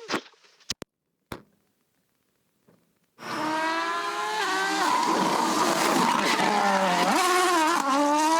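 A few faint clicks, then a rally car's engine starts up loud and sudden about three seconds in. It revs hard at full throttle, its pitch climbing and dropping with each gear change, over a hiss of tyre and road noise.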